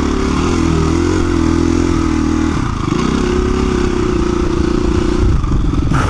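Single-cylinder four-stroke engine of a KTM 350 EXC-F dirt bike running under load on the trail, its note shifting as the throttle changes, once about two and a half seconds in and again near the end.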